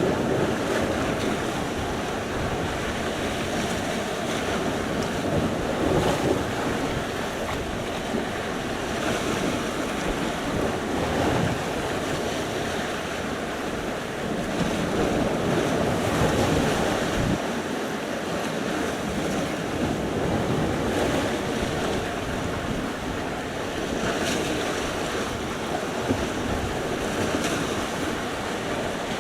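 Sea surf: waves breaking and washing ashore in a continuous rush that swells every few seconds, with wind on the microphone.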